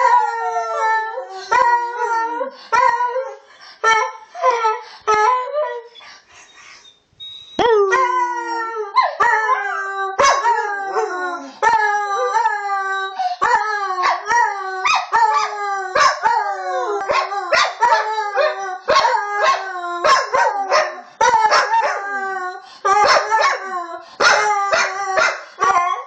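Dogs howling and yipping in a long run of short calls, each falling in pitch, the calls at times overlapping. They quieten briefly about six seconds in and resume about a second and a half later.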